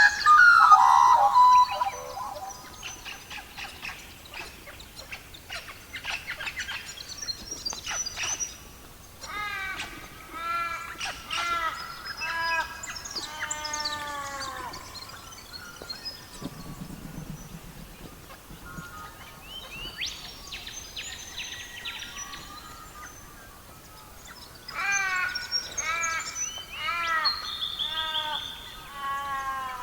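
Songbirds singing: repeated runs of short, quick, falling chirped notes, with a louder burst of calls right at the start and quieter gaps in between.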